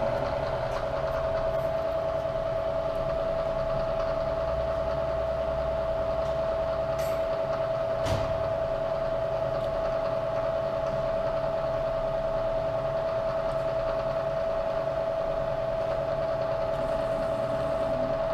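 Bridgeport EZ-TRAK vertical mill running with its spindle turning, a steady whine over a mechanical hum. A sharp click about eight seconds in.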